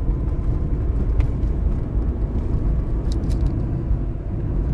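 Lada Vesta's cabin on the move: a steady low road and engine rumble, with a faint click about a second in and a few light high ticks about three seconds in. With the glovebox opened, its squeak is gone.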